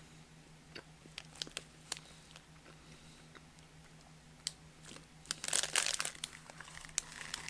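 Plastic snack packaging crinkling as a hand rummages in it, starting about five seconds in, after a few seconds of faint scattered clicks over a steady low hum.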